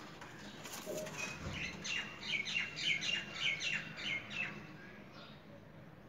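A bird chirping a quick run of about ten short, high notes, roughly three a second, for about three seconds, with a soft low thump about a second and a half in.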